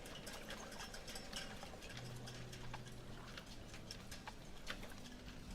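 Faint, irregular clicking and ticking, several clicks a second, over a low background murmur.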